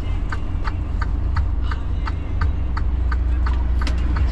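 Semi-truck's engine running with a steady low rumble, heard from the cab, with a sharp clicking about three times a second.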